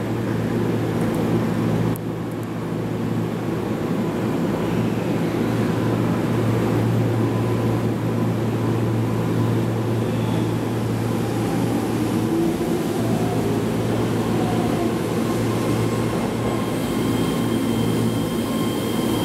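Keihan 3000-series limited express train running into a station platform: a steady rumble of motors and wheels, with a thin high tone coming in near the end.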